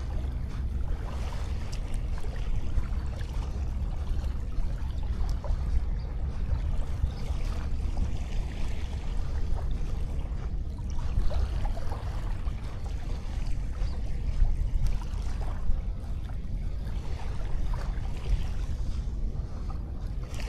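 Wind buffeting an action camera's microphone with a steady low rumble over sea waves washing on a sandy beach, and a few small scattered ticks.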